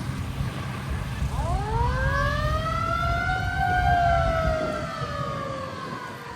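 A siren winds up about a second in, peaks and then slowly falls away, over the low rumble of a truck engine that fades out partway through.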